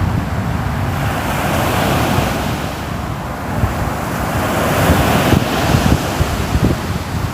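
Ocean waves washing onto the shore, the surf swelling about a second in and again around four to five seconds, over a steady low rumble.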